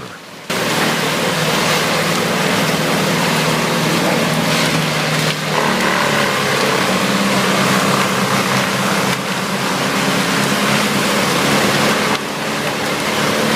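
Vermeer WC2300XL whole tree chipper running loud and steady, its engine humming under a dense grinding hiss as the infeed conveyor pulls trees in. The sound comes in about half a second in, with a few brief changes in level.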